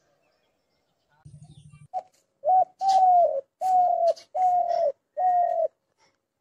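Dove cooing: a low purring note about a second in, then a run of six short coos that each dip in pitch at the end, the later ones longer.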